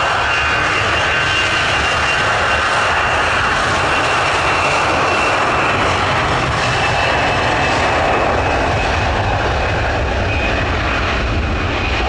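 Jet airliner's turbofan engines running loud and steady: a broad rush of noise with a high, thin whine over it.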